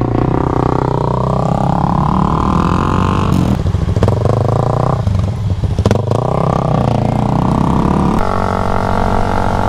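Honda Grom's single-cylinder 125 cc engine accelerating through the gears: its pitch climbs, drops back at each upshift about three and a half and five to six seconds in, climbs again, then holds steady near the end.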